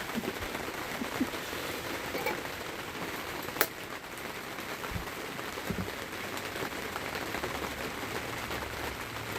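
Steady rain pattering, with one sharp click about three and a half seconds in.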